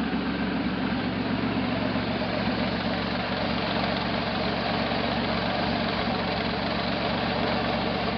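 Buick V6 in a 1968 Jeepster Commando idling steadily, with a misfire that the owner traces to one of the back cylinders.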